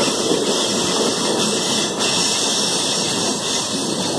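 Passenger train running along the track, heard from an open door: a steady rush of wheel-on-rail noise mixed with wind blowing past the doorway.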